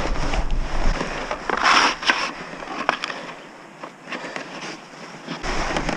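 Handling noise: rustling and scattered light clicks and knocks, with a short burst of hiss about two seconds in.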